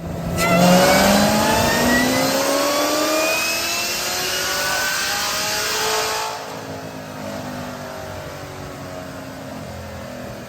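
Supercharged LT4 V8 of a modified C7 Corvette Z06 with a BTR camshaft, accelerating hard, its pitch rising steadily for about six seconds. Then the throttle lifts and it falls to a quieter, lower, steady run.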